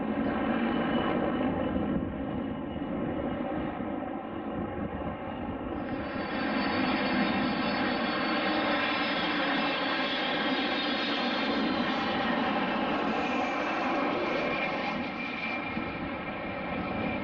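Fixed-wing airplane engines running in a steady, continuous drone that grows louder about six seconds in and eases a little near the end.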